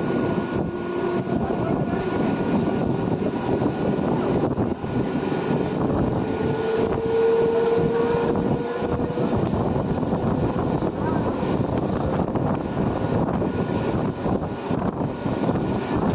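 Train passing on the line, a steady rumble of wheels and running gear, with a thin whine that rises slightly in pitch about six to nine seconds in.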